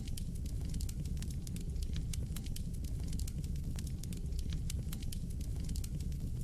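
Fire burning in a fireplace, crackling with frequent small, irregular pops over a steady low rumble.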